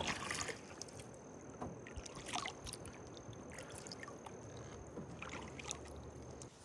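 Faint kayak paddling: light paddle splashes and drips with occasional small knocks. A thin steady high tone runs through most of it and stops shortly before the end.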